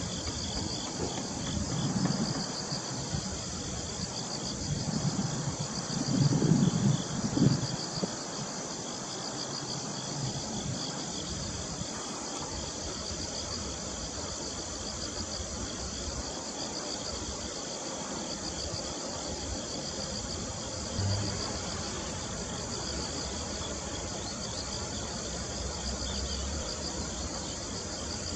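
Autumn insects chirping steadily in fast pulsed trills, a high even chorus that keeps going throughout. Low rumbles swell a couple of times in the first third.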